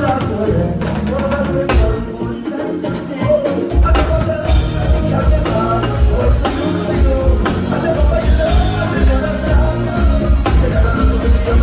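Live band music with a lead vocal over drums and bass; a heavy, regular bass-and-kick pulse comes in about four seconds in.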